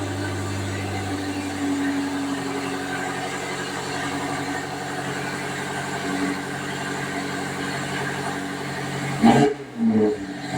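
BMW X6 M Competition's twin-turbo V8 idling just after starting, its note settling down about a second in to a steady idle. Near the end, a few short, loud, sharp bursts.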